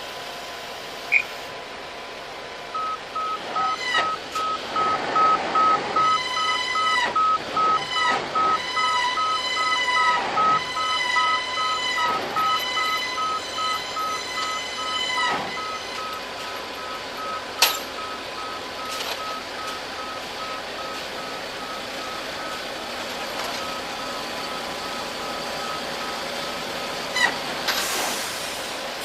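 A heavy vehicle's reversing alarm beeping at a steady, even rate. For roughly the first half, a louder, higher tone also sounds in repeated blasts about a second long.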